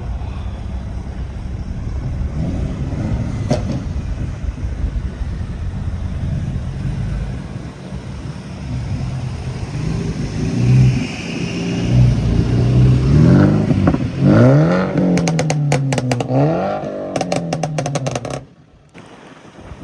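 Car engines running as cars pass, with one engine revved up and down several times in the second half and a rapid run of sharp cracks during the revving. The sound cuts off abruptly near the end.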